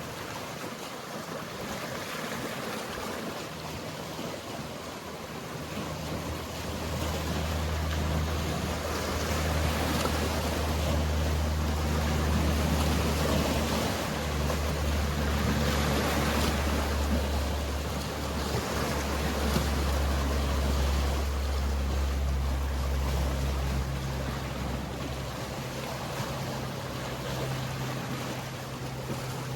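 Low, steady drone of a boat's engine that builds from about six seconds in and eases off near the end, over a continuous wash of sea water.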